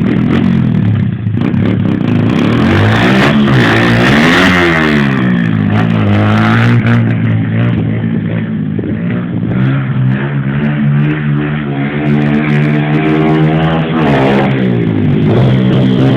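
125 cc motocross bike engine revving under riding: its pitch climbs to a peak about four seconds in, falls away, holds a steady high note, then dips and rises again near the end.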